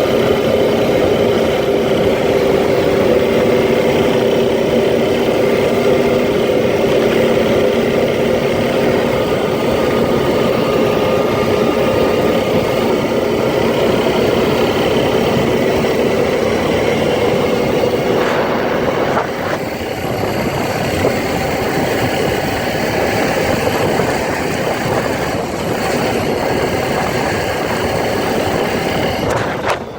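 A quad (ATV) engine running steadily during a ride, its steady hum fading about two-thirds of the way through into a rougher, slightly quieter noise.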